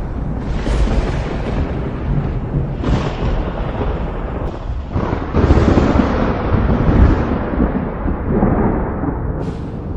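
Thunder rumbling on and on in rolling waves, with the loudest peals about halfway through.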